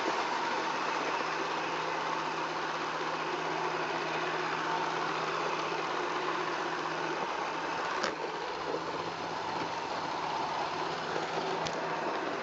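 iRobot Roomba 400 series robot vacuum running, a steady motor and brush whir with a low hum, with a couple of light clicks about eight and eleven seconds in.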